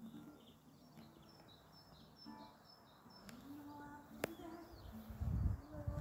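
Small birds chirping with short high calls, over faint background noise. Two sharp clicks in the middle and a low rumble near the end.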